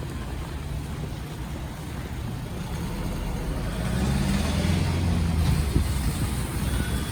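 A motor vehicle driving past on a wet street: a low engine rumble that grows louder about halfway through, then eases, over a steady hiss of rain and tyres.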